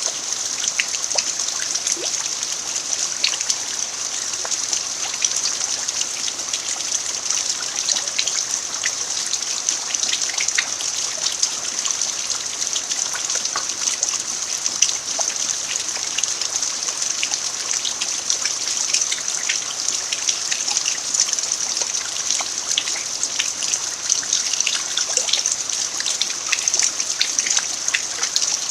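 Steady rain falling on a dirt yard: an even hiss of many small drops, with countless tiny ticks of individual drops.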